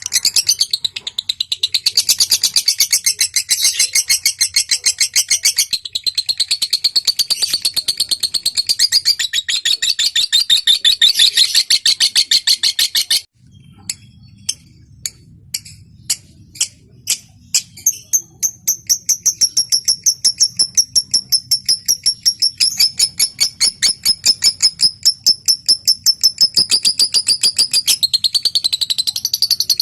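Lovebird calling in a fast, high-pitched trilling chatter (ngekek), which cuts off suddenly about thirteen seconds in. It starts again as a string of separate ticks (ngetik) that build into another long, rapid trill.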